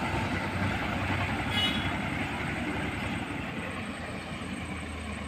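Tractor engine running steadily with a dense, low rumble, and a brief high squeal about a second and a half in.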